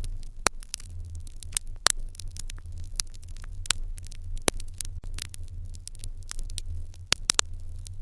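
Wood fire crackling in an irori hearth: a steady scatter of small snaps with a few louder pops, over a low steady hum.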